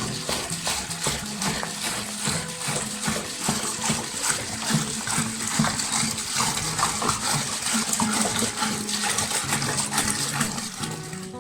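Liquid splashing and pouring steadily, a dense irregular patter of splashes.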